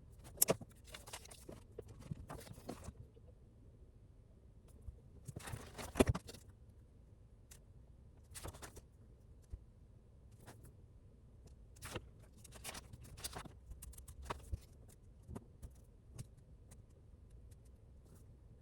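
Irregular light rustles and sharp clicks of small objects being handled, with a loudest click about six seconds in.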